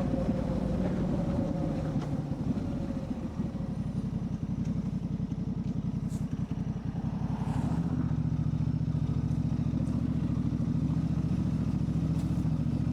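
Motorcycle engine running, recorded from the bike. Its note falls over the first few seconds as it slows, then holds at a steady low pitch from about two-thirds of the way through.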